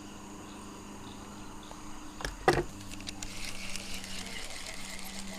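Night riverside ambience: a steady low hum, one sharp knock about two and a half seconds in, then insects chirring.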